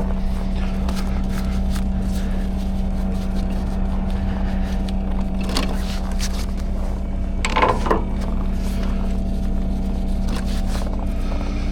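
Timber truck's engine running steadily with an even hum. About eight seconds in, a short, louder noise rises briefly over it.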